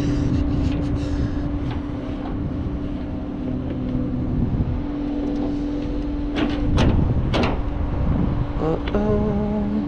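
Tow truck driving, heard from inside the cab: a steady engine hum and road rumble, with a few sharp knocks and rattles about two-thirds of the way through.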